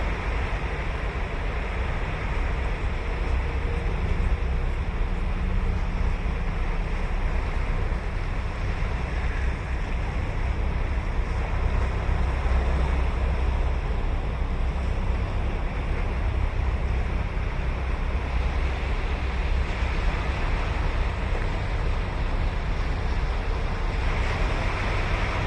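Ocean surf washing on a sandy beach as a steady wash of noise, with a low rumble of wind on the microphone underneath.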